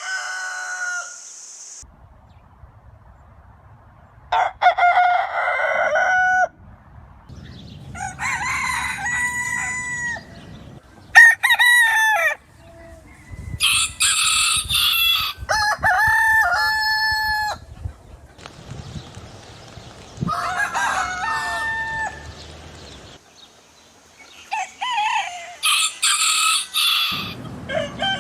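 Roosters crowing, a series of separate cock-a-doodle-doo calls one after another with short gaps between them.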